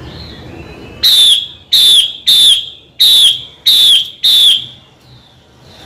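Female Chinese hwamei calling: six loud, whistled notes in quick succession, each dipping slightly in pitch at its end.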